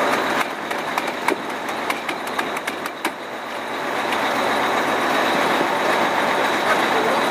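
Fire engine running at idle with a steady mechanical noise and a faint high whine. A quick run of sharp clicks sounds over the first three seconds.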